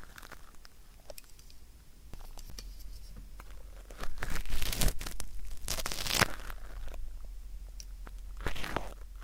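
Ear pick scraping and crackling close to the microphone, as in ASMR ear cleaning of hard earwax: faint scattered scratches at first, then louder, denser crackly strokes from about four seconds in.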